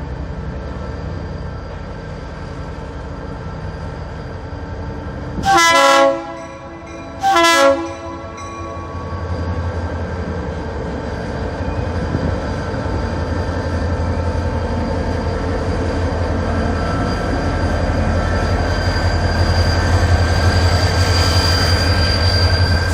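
Diesel freight locomotive sounding two short horn blasts, about six and seven and a half seconds in, then its engine rumbling and growing steadily louder as the train approaches.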